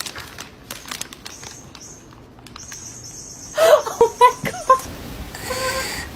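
A quick series of short, squeaky animal calls that bend in pitch, starting about three and a half seconds in, over a faint steady high whine, with scattered clicks before them and one longer call near the end.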